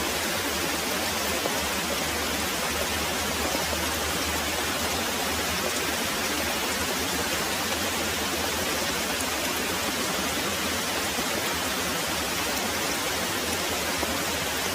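Very heavy rain pouring steadily: a dense, even hiss with no break.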